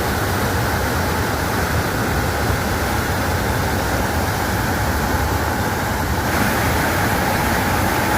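Waterfall roaring steadily: a large volume of water pouring down the falls, a constant rushing noise with a deep rumble.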